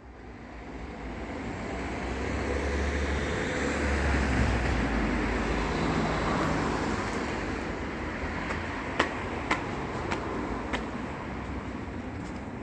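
Steady low rumble with a hiss of noise above it, with a few sharp clicks in the second half.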